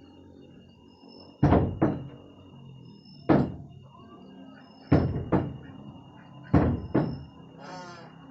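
A series of loud, hard knocks, mostly in pairs about half a second apart, with a new pair about every second and a half.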